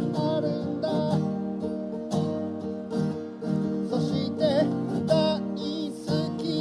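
Acoustic guitar strummed, with a voice singing a Japanese song over it in phrases.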